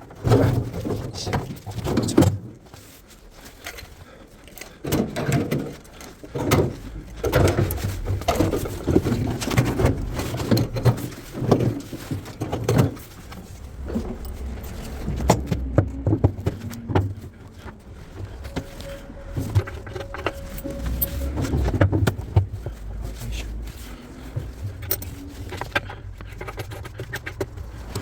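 Irregular knocking, clattering and banging of hands and tools working on a top-loading washing machine's parts, sped up.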